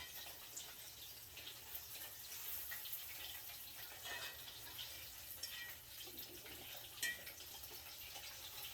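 Panko-breaded chicken cutlets frying in hot oil in a pan: a steady sizzle with scattered small crackles and pops, one louder pop about seven seconds in.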